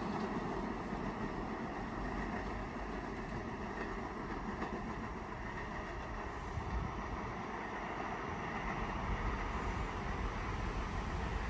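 Staten Island Railway train pulling away from the station, its rumble fading over the first few seconds into a steady background hum.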